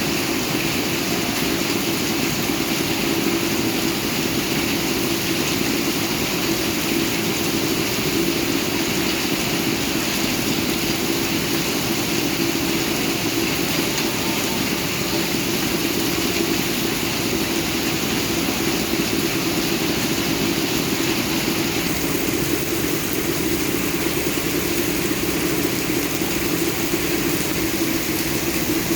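Steady rainfall: an even, unbroken hiss with a steady low drone beneath it.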